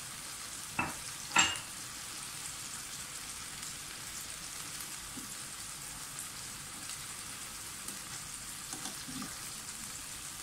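Skewered chicken tikka pieces sizzling steadily in oil on a hot non-stick tawa, the chicken having let out some water into the oil. About a second in come two sharp clicks from the metal skewers being turned over on the pan, then a few faint knocks near the end.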